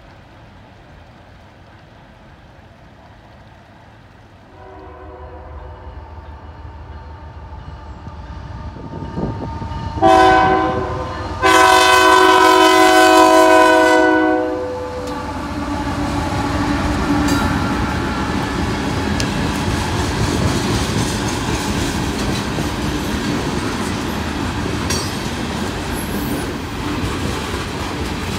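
Diesel freight locomotive's multi-note air horn, heard faintly and growing louder, then a short loud blast and a long loud blast as it reaches a road crossing. Then the locomotive and a line of loaded coal hopper cars roll past, with steady wheel rumble and clickety-clack over the rail joints.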